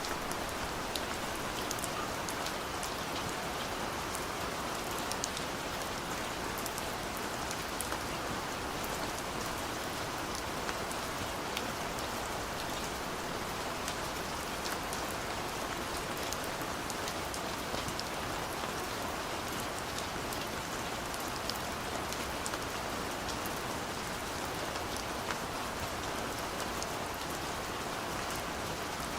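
Steady rain falling, with scattered sharp drop ticks over an even patter.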